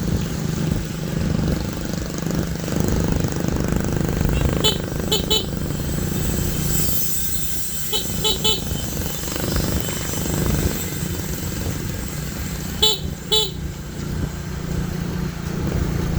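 Motorcycle engine running steadily, with three quick groups of short horn beeps, two or three toots each.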